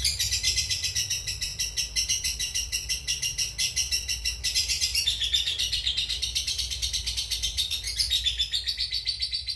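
Lovebird singing its long 'ngekek' song: a continuous, rapid, high-pitched chattering trill held without a break.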